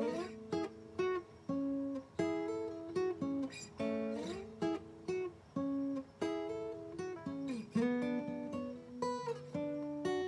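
Acoustic guitar playing a slow instrumental piece: chords and single notes plucked one after another, each ringing out and fading, with a few notes sliding in pitch.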